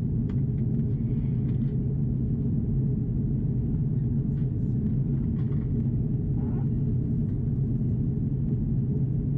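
Steady low rumble of an Airbus A330-343 airliner cabin in descent: engine and airflow noise with an even low hum that does not change.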